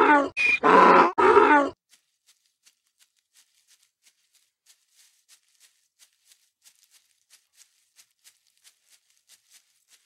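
A donkey braying for about a second and a half, then faint ticking, about three ticks a second.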